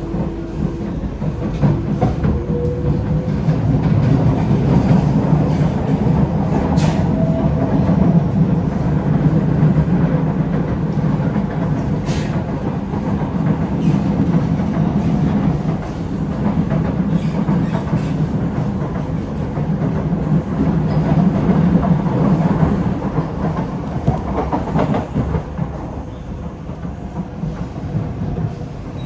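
Kawasaki–CRRC Sifang C151A metro train running between stations, heard from inside the carriage: a steady rumble of wheels on track that swells and eases, with a couple of sharp clicks about 7 and 12 seconds in.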